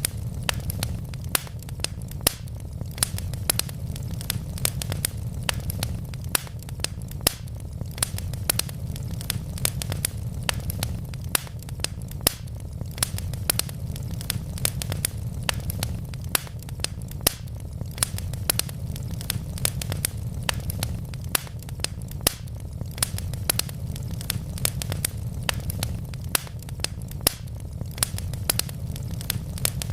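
Wood logs burning in a fireplace, crackling with many sharp pops and snaps, several a second, over a steady low rumble of the flames.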